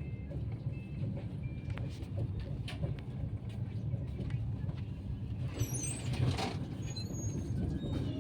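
Passenger train at a station platform: a steady low rumble with scattered clicks and knocks, and a brief high squeaking about six seconds in.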